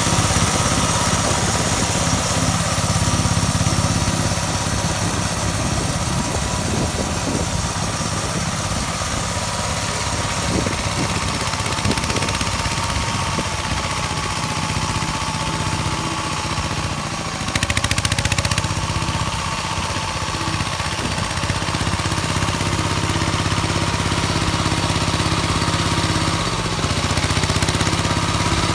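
Engine of a walk-behind tractor converted into a ride-on mini tractor, running steadily under load while driving a rotary tiller through the soil. Its note dips briefly about two-thirds of the way through and shifts again near the end.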